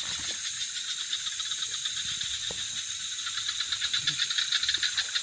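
Night insects, likely crickets, trilling in a steady, high, rapidly pulsing chorus, with a few faint ticks beneath.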